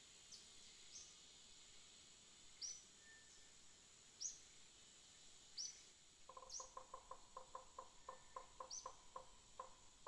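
Faint forest ambience: birds giving short, high, downward chirps every second or two over a steady faint high hiss. From about six seconds in, a quick run of low pulsed notes repeats about four or five times a second.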